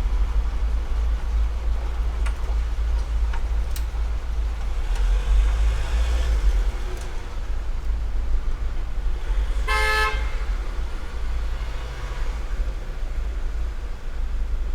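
A steady low hum runs throughout, with a few faint light clicks. About ten seconds in comes one short horn-like toot, a bit under half a second long.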